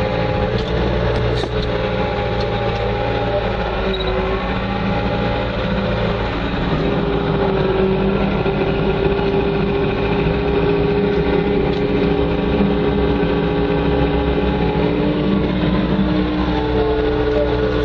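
Bobcat 2410 articulated loader's engine running continuously as heard from inside the cab while it plows snow, its pitch shifting a few times as it works.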